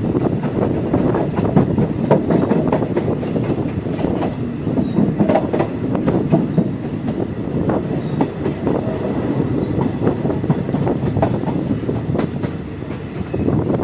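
Passenger train coach running along the line, a continuous rumble with many irregular clicks and knocks of wheels over the rail joints, heard from aboard the train.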